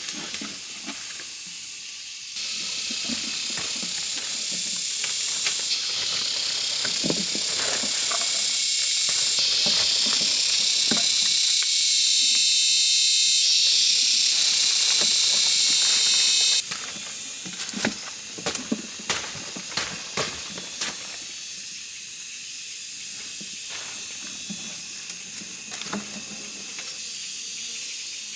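Cicadas buzzing as a high, hissing drone that swells in stages, then cuts off suddenly a little past halfway. Scattered light clicks and snaps run through it.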